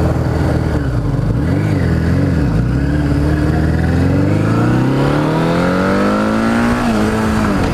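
Dirt bike engine accelerating: two short throttle blips, then a long pull rising steadily in pitch for about four seconds before the revs drop back near the end.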